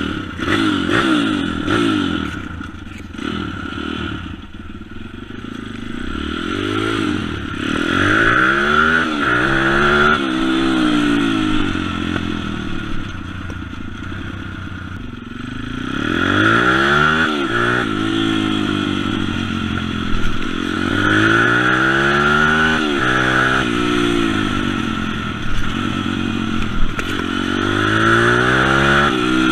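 M2R 140 cc pit bike's single-cylinder four-stroke engine being ridden hard, its pitch climbing and dropping every few seconds as the throttle is opened and closed through the gears.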